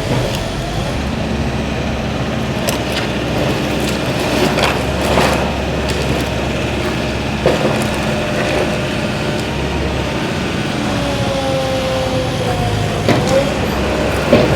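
A vehicle engine running steadily under general street noise, with a few short knocks.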